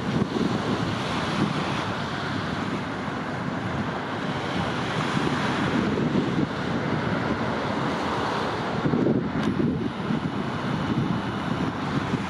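Wind rushing over the microphone, a steady noisy rush that swells and eases in gusts, with the wash of the sea mixed in.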